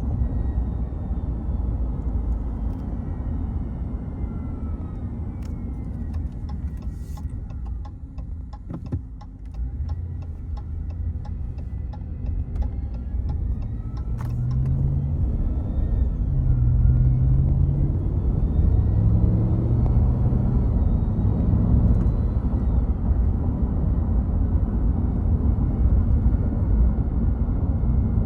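2021 Ram 1500 Hemi eTorque V8 truck running, with a thin high whine from the front belt drive that rises and falls with engine speed over a steady low engine and road rumble. The whine comes from a failing belt tensioner pulley, which the owner first took for worn eTorque bearings. A quick run of ticks comes about seven seconds in.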